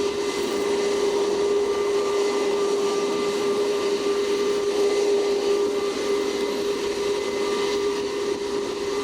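Jet aircraft engines running with a steady, even whine over a rush of noise.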